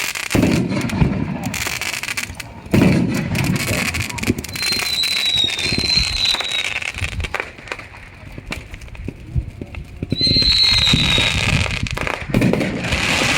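Fireworks and firecrackers going off: a dense run of sharp pops and crackles, with a high whistle heard twice, about a third of the way in and again near two-thirds of the way.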